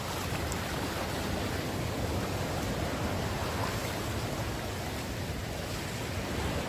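Heavy rain falling as a steady, even hiss with no breaks.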